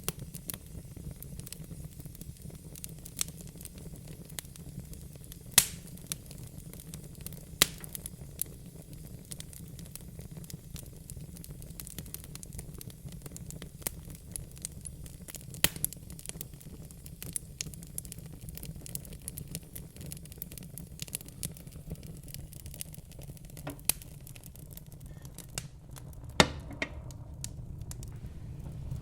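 Wood fire crackling in a fireplace: scattered sharp snaps and a few louder pops over a low, steady rumble.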